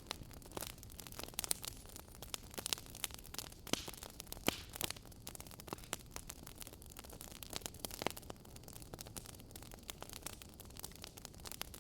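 Fireplace crackling: irregular sharp pops and snaps over a low steady rush.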